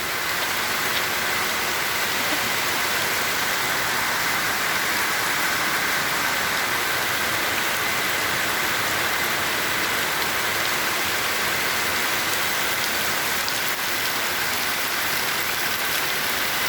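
Heavy rain pouring down in a steady, even hiss: a downpour.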